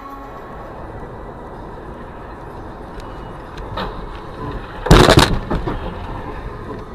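Steady car road noise, then about five seconds in a sudden loud collision: a bang followed by a few shorter crunching knocks.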